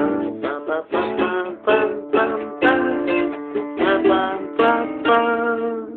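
Guitar playing a run of chords in succession, several chord changes, with the last chord ringing and fading near the end.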